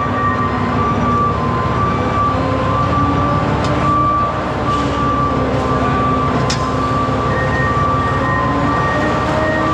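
Steady road noise of a truck driving at speed, with a few constant whining tones over it.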